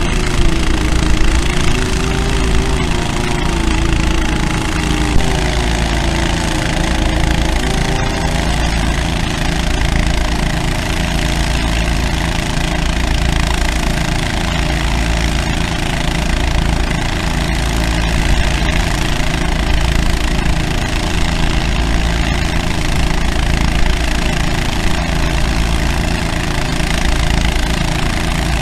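Engines on a construction site running steadily, with a slow, regular throb. Over the first several seconds a wavering whine rises and falls on top.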